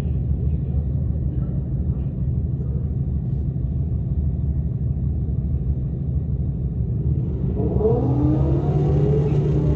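A car engine running with a steady low rumble; about three-quarters of the way in, a rising whine comes in over it as the car accelerates.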